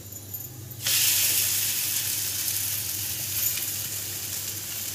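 Poha thalipeeth dough laid onto a hot, oiled non-stick tawa: the oil starts sizzling suddenly about a second in and keeps sizzling steadily, easing off slowly.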